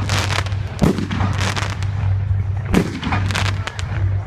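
Fireworks bursting overhead: two deep booms, about a second in and again near three seconds, with rapid crackling from smaller bursts between them.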